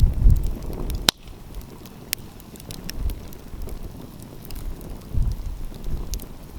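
Wood fire crackling, with scattered sharp pops and one loud snap about a second in. Gusts of wind rumble on the microphone.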